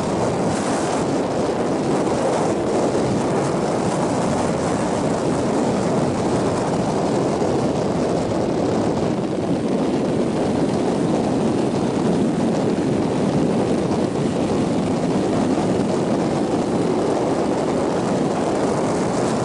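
Motorcycle on the move: engine running with wind rushing over the microphone, a steady, even noise that doesn't let up.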